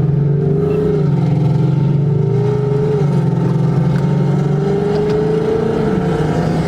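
Car engine and exhaust droning at a steady, loud pitch, the note slowly climbing near the end as the engine holds a light load.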